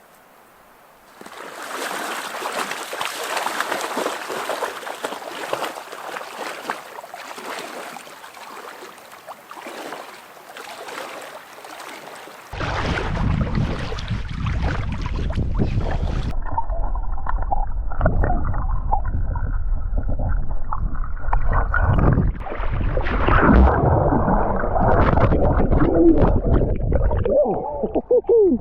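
Water splashing and sloshing. About halfway through, the sound turns abruptly muffled and heavy in the low end.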